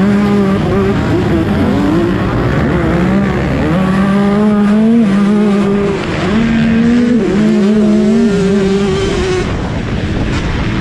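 Motocross bike engines revving hard, their pitch climbing and dropping again and again with throttle and gear changes.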